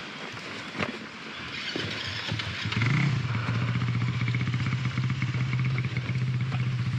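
Dirt bike engine comes in about two seconds in, rises briefly, then runs at a steady idle. A few knocks before it.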